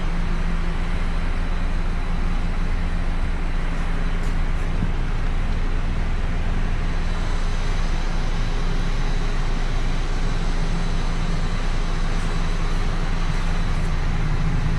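Steady low mechanical drone with an even hiss over it, unchanging throughout.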